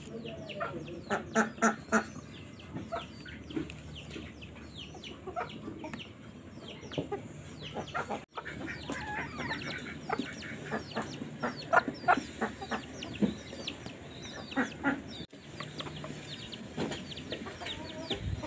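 Birds calling, many short chirps and clucks one after another, over a low steady background hum; the sound drops out for an instant twice.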